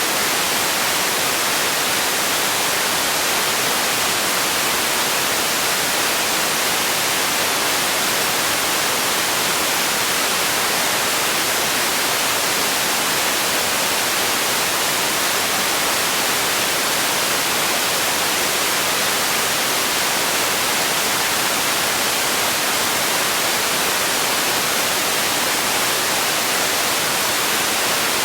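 Steady sleep noise: an even, unchanging hiss, brightest in the upper range and thin in the bass.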